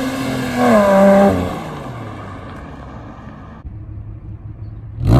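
Subaru Legacy 3.0R's flat-six engine revving through an axle-back muffler-deleted exhaust: the revs fall, a quick blip about a second in, then it settles to a low idle before a sharp rev starts near the end.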